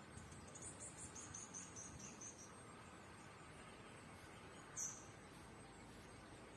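Faint high chirping of a small bird: a quick run of short notes stepping down in pitch for about two seconds, then a single louder chirp about five seconds in.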